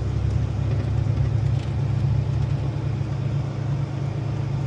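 Truck engine running steadily under way, a constant low drone with no change in pitch.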